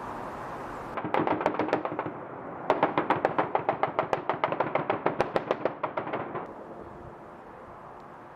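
Automatic gunfire in rapid bursts, about eight shots a second: a short burst about a second in, then a longer burst of about three and a half seconds.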